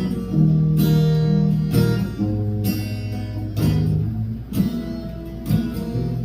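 Acoustic guitar strumming chords in a steady rhythm, the instrumental introduction to a country song before the vocals begin.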